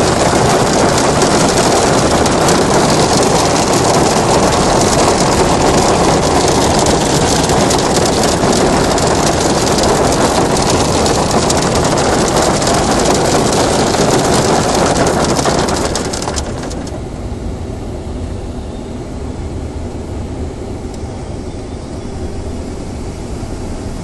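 Hail pelting down hard, a dense, even rush of countless small impacts; about two-thirds of the way through it drops suddenly to a quieter, softer hiss.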